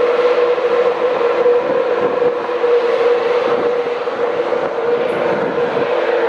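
A train running at close range: a loud, steady rumble with a held mid-pitched hum over it.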